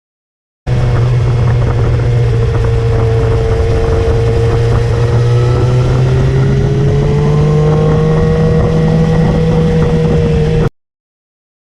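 Motorcycle engine running at a steady cruising speed under heavy wind and road noise, its pitch drifting slightly upward in the second half. The sound starts abruptly about a second in and cuts off near the end.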